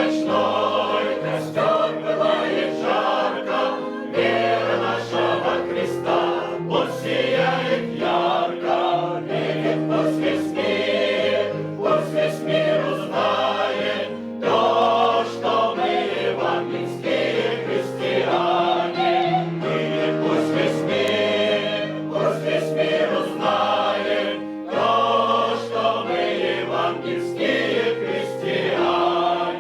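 Choir singing a Russian evangelical spiritual song in held chords, the low voices stepping to a new note every second or two.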